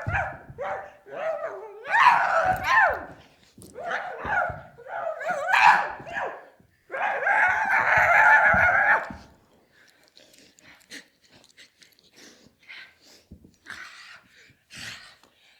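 A string of dog-like whining and yelping calls, rising and falling in pitch, ending in one long held whine about nine seconds in; after that only faint small clicks and mouth sounds.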